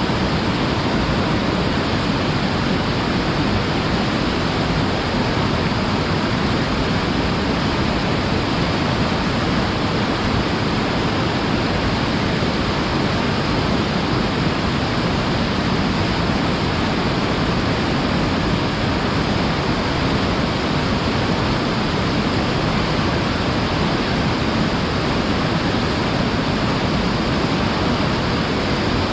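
Waterfall roaring: a loud, steady rush of falling water with no change throughout.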